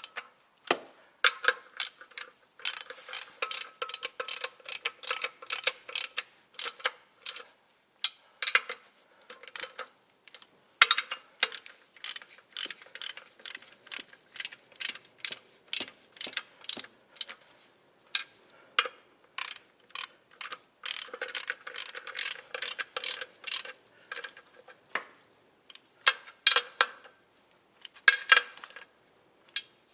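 Hand ratchet clicking in quick back-and-forth strokes, tightening the clutch pressure plate bolts evenly around. The clicks come in runs broken by short pauses as the wrench moves from bolt to bolt.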